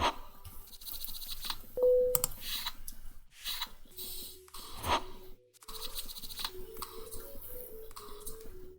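Online poker table sound effects: a series of short clicks and scratchy chip- and card-like sounds, with a brief tone about two seconds in.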